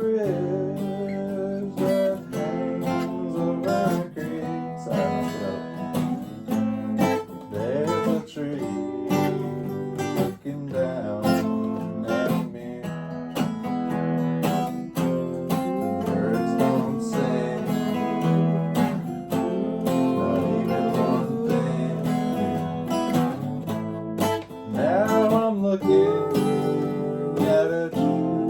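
Two guitars jamming on an instrumental riff: strummed chords under picked lead lines, with some notes bent or slid in pitch.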